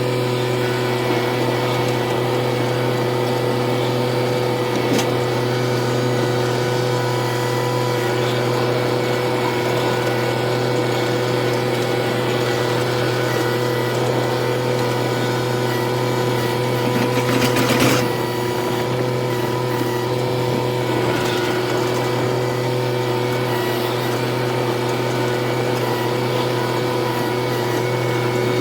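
An engine running at a steady speed, with a brief rattle about two-thirds of the way through.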